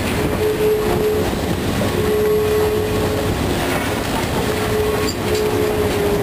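Steady rumble and rattle of a train riding the rails, heard from an open passenger car, with a faint tone that comes and goes several times.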